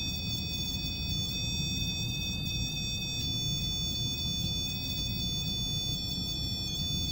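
Steady high-pitched electronic tones, several pitches held together without a break, over a low steady hum.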